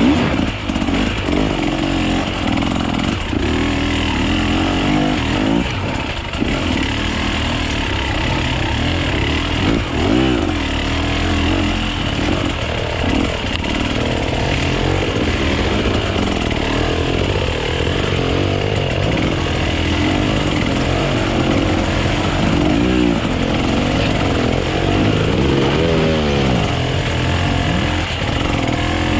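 Enduro dirt bike engine running under load off-road, the revs rising and falling over and over as the throttle is worked.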